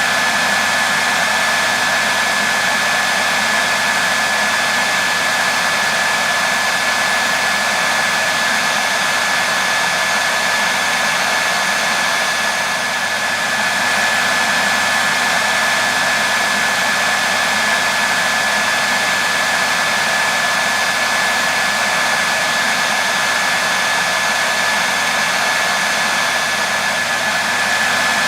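Hair dryer running steadily: an even rushing hiss of blown air with a thin steady whine from the motor and fan.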